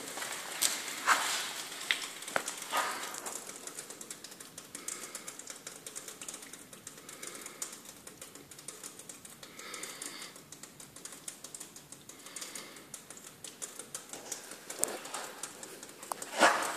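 Wood fire crackling in a fireplace: irregular snaps and pops over a soft hiss, with several sharp pops in the first few seconds and a loud pop near the end.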